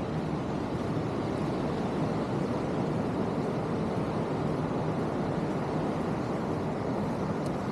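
Steady rushing noise of ocean surf breaking along the beach.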